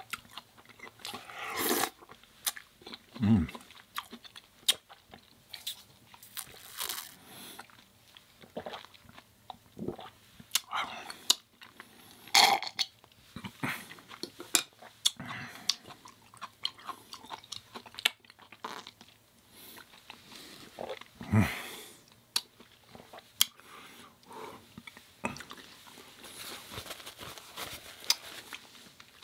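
Close-miked eating: bites and chewing with short crisp crunches and wet mouth clicks, and twice a louder short low sound.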